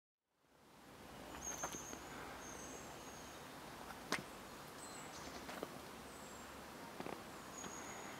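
Faint outdoor ambience with short, high, thin bird calls repeating every second or so over a steady hiss, and a few sharp clicks.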